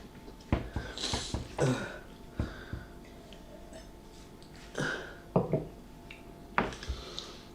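Quiet eating and mouth noises from people eating footlong subs: a handful of short, scattered breaths, mouth sounds and small knocks. A faint steady hum sits beneath.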